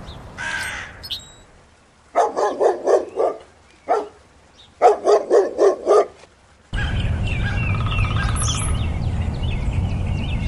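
A short bird call at the start, then a dog barking: two quick bursts of about five barks each. After that comes a steady wind rumble with small birds chirping over it.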